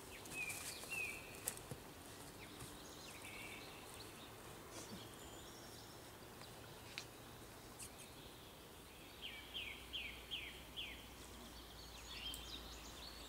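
Quiet outdoor ambience with small birds calling: a few short chirps early on, then a run of about five quick falling chirps in a row near the end, with a few faint clicks.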